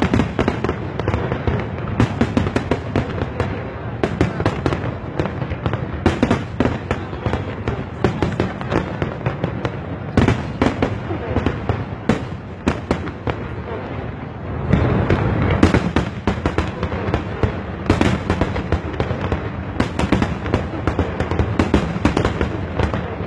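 Aerial fireworks bursting in quick succession, a constant run of bangs and crackles. A denser, louder volley starts about two-thirds of the way in.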